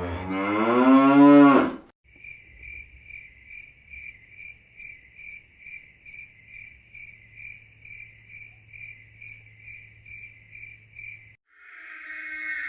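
Stock sound effects played back to back: a cow mooing, its pitch rising, then cricket chirping in a steady high pulse about three times a second for some nine seconds. Another sound begins near the end.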